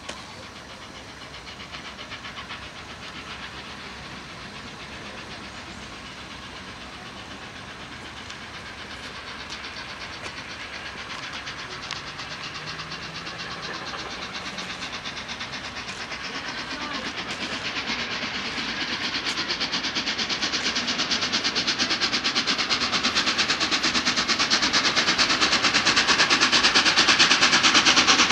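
Peppercorn A1 Pacific steam locomotive 60163 Tornado approaching, its rapid three-cylinder exhaust beat and hiss growing steadily louder.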